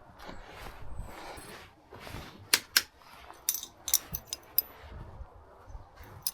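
Garden brush sweeping on the bike shed roof with a rustling scrape. About halfway in come a run of sharp clicks and knocks.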